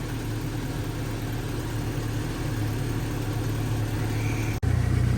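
Jeep engine idling steadily during a cold-weather warm-up, a low even hum. Near the end the sound drops out for an instant and comes back louder.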